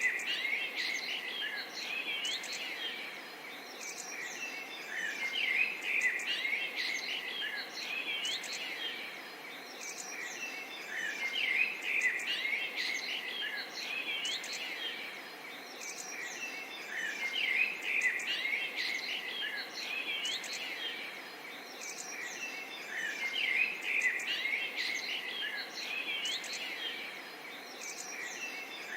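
A chorus of small birds chirping and singing over a light, steady murmur of flowing water. The birdsong swells and eases in waves every few seconds.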